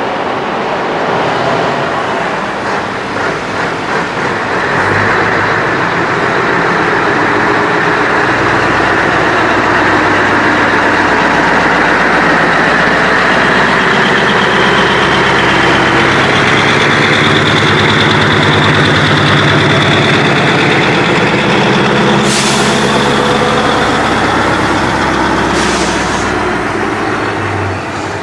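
Heavy diesel truck engine running as a truck moves past slowly, growing louder over the first few seconds and then holding steady. Near the end come two short hisses.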